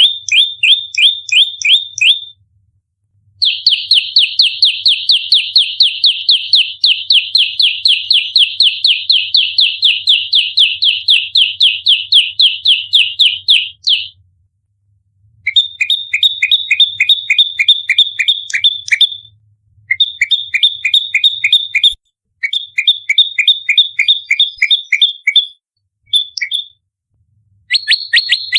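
Prenjak lumut calling in the rapid, tightly packed fighting call used as a lure: fast runs of sharp, evenly repeated high notes, several a second, in bursts with short pauses, the longest lasting about ten seconds.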